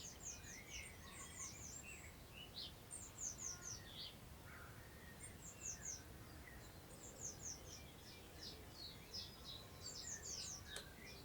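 Songbirds singing at a distance: short runs of quick, high, falling notes every second or two, over a faint, steady low rumble of wind.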